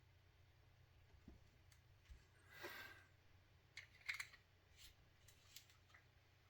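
Near silence, broken by a few faint small clicks and a brief scrape about two and a half seconds in, from small hand tools and parts being handled.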